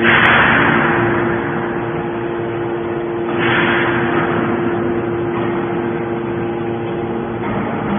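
Hydraulic baler running: a steady motor-and-pump hum, with two loud hissing surges, one at the start and one about three and a half seconds in, each fading away over a second or so.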